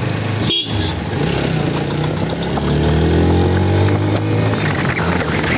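Motorcycle engine running while riding, its pitch rising for a couple of seconds as it speeds up, with a brief break in the sound about half a second in.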